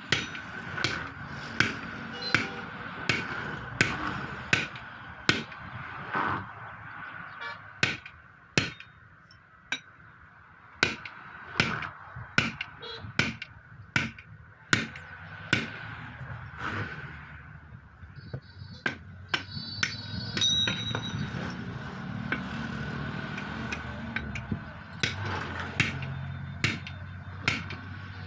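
Hammer blows on metal while a truck tyre is being fitted, struck in a steady rhythm of about one blow every three-quarters of a second. The blows stop for several seconds past the middle, then start again.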